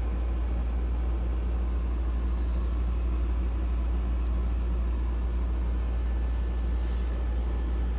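A steady low rumble, with a cricket chirping over it in a continuous, evenly pulsing high trill.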